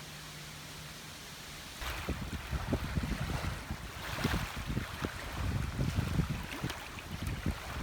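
Wind buffeting the phone's microphone in uneven gusts, starting abruptly about two seconds in after a faint steady hiss.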